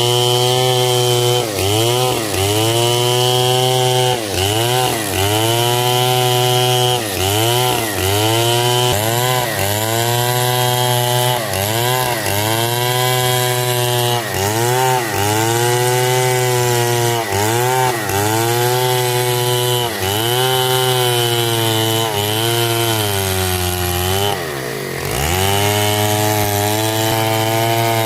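Stihl MS 070 two-stroke chainsaw cutting through hard coconut wood. The engine runs hard, its pitch dipping and recovering about once a second as the chain bites into the wood, with one deeper dip near the end.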